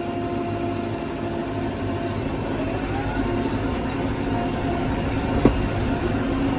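New Holland Powerstar 75 tractor's diesel engine running steadily under load in third range, second gear, heard from inside the cab. About two seconds in, a whine rises in pitch, and a single sharp click comes near the end.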